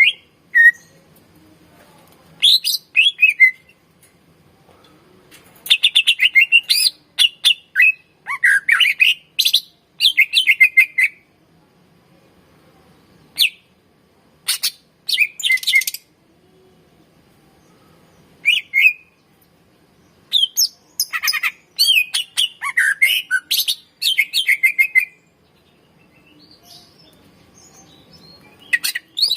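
Green leafbird (cucak ijo) singing in loud bursts of rapid chirps, trills and whistled phrases, separated by short pauses.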